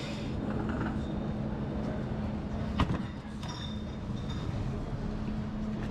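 Steady low electric hum of a standing train, with one sharp knock about three seconds in.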